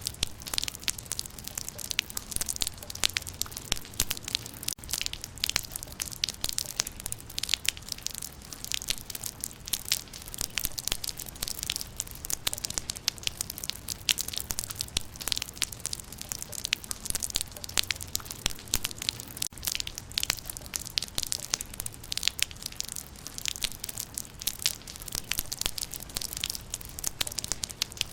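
Rain falling on leaves: dense, irregular pattering of drops on foliage.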